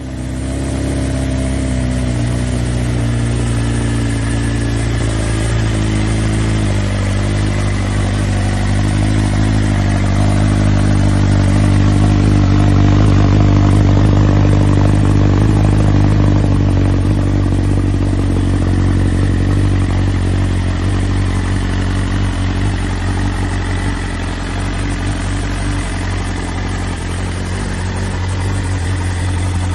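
2020 BMW S1000RR's inline-four engine running steadily at low revs through its exhaust, with small shifts in pitch.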